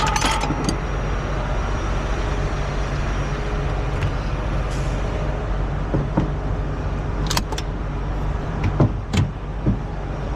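Heavy diesel truck engine idling steadily, with a few sharp metallic clanks and knocks in the second half, most of them near the end.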